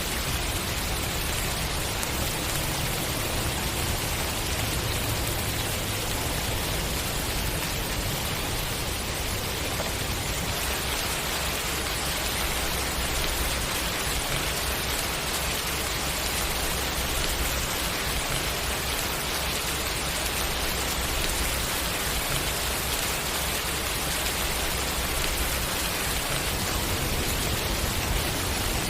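Steady, even rain falling, a constant hiss with no single drops or thunder standing out.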